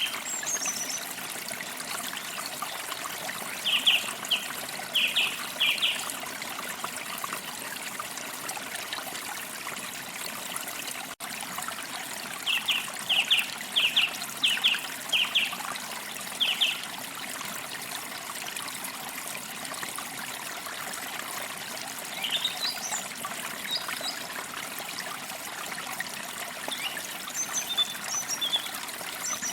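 Forest stream trickling steadily, with a songbird calling over it: two runs of quick, repeated short notes, then higher, thinner chirps near the end.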